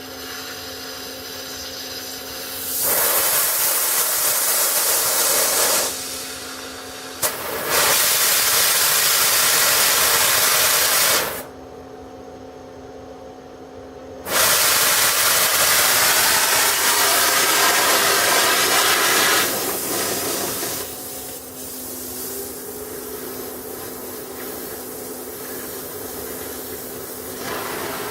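Hissing gas jet from an HHO (oxyhydrogen) welding station's torch in three bursts of several seconds each, over a steady hum. A sharp click comes about seven seconds in.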